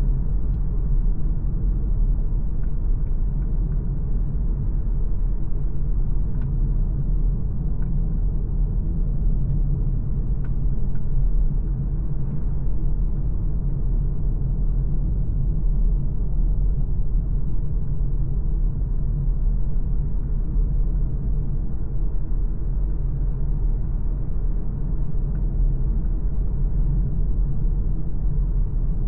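MG ZS Hybrid+ under way: a steady low rumble of road and drivetrain noise, with a few faint ticks in the first half.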